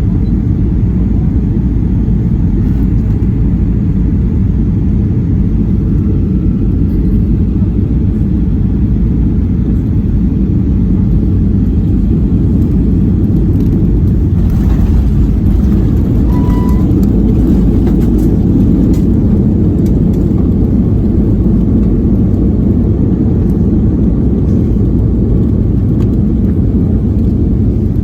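Steady low rumble inside the cabin of a Boeing 737-800, heard from a rear seat. The sound is engine and airflow noise with no change in level. About halfway through, a brief faint tone sounds over the rumble.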